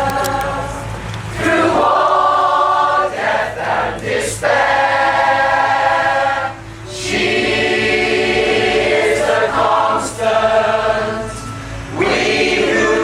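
A pop choir singing together, holding long notes in phrases with brief breaths between them.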